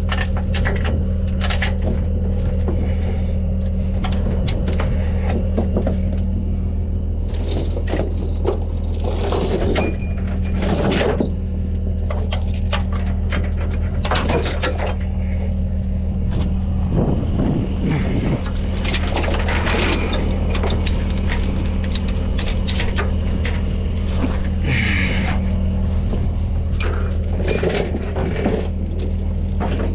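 A truck's diesel engine idles steadily throughout, with irregular metal clanks and rattles of tie-down chains and binders being handled and hooked on.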